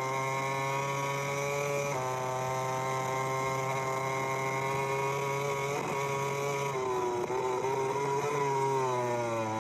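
MotoGP racing motorcycle engine running at high revs, its pitch holding steady with a few small steps, then dropping and falling away near the end.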